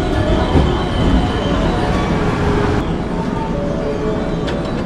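Electric commuter train pulling in alongside a station platform, its running noise steady. About three seconds in the sound changes to the train standing at the platform with its doors open, with a few light clicks near the end.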